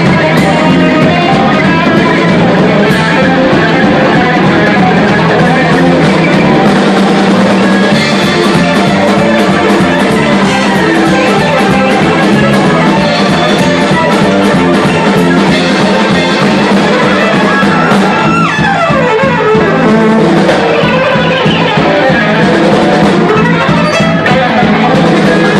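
Live band playing a fast Gypsy-style tune, with plucked strings and drum kit. About eighteen seconds in, a high note slides steeply down in pitch.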